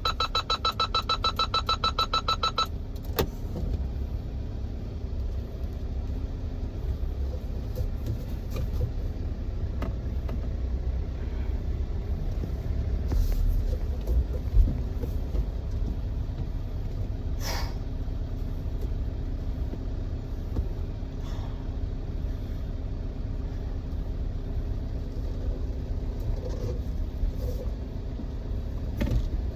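A test car's engine and road noise as a low, steady rumble heard inside the cabin while the car drives the course. For the first couple of seconds a rapid electronic beeping runs over it and then cuts off sharply.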